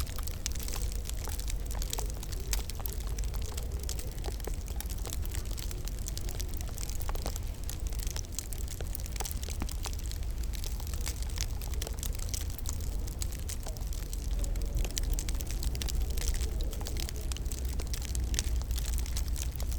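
Wood fire crackling in a fireplace: a steady stream of small irregular pops and snaps over a constant low rumble.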